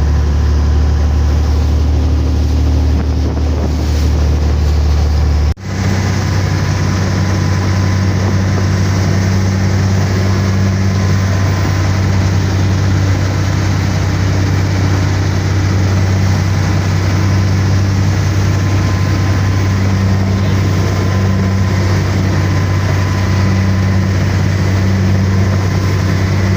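Motorboat engine running steadily underway, a loud low drone, with wind on the microphone and water rushing past. About five and a half seconds in there is a sudden break, and the engine's drone is higher in pitch after it.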